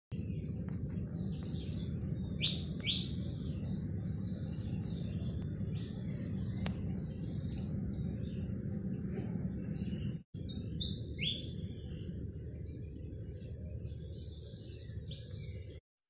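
Wild birds giving short, down-slurred chirps, a few near the start and one just after the middle, over a continuous high insect drone and a steady low rumble. The sound cuts out briefly just after the middle and stops just before the end.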